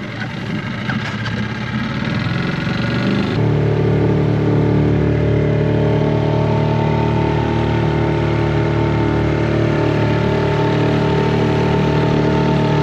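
Suzuki 4 HP outboard motor running, uneven at first, then from about three seconds in a steady, louder drone.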